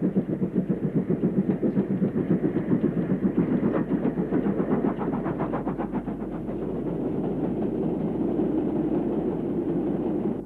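Steam-hauled freight train, a 2-6-0 mogul locomotive on a heavy iron ore train, going by with a fast, even rhythmic beat that eases into a steadier rumble about six seconds in. The sound cuts off suddenly at the end.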